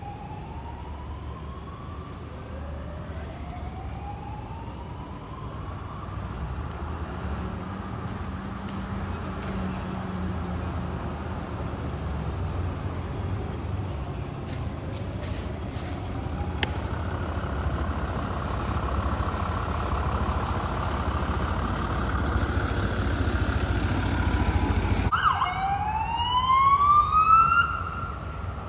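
Fire truck siren wailing in slow rising sweeps, then switching to a faster warbling tone over a truck's engine rumble that grows steadily louder as it approaches. Near the end the sound cuts off abruptly and a siren sweeps sharply upward in pitch.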